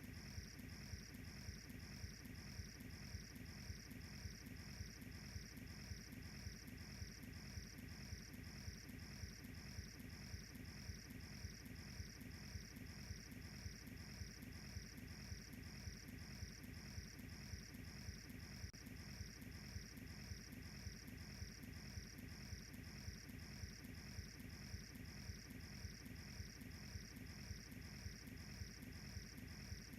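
Crickets chirping faintly in an even rhythm of about two chirps a second, over a steady low rumble.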